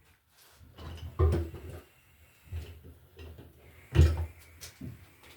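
A few dull thumps and knocks from handling work materials, the loudest about a second in and another about four seconds in, with lighter knocks between.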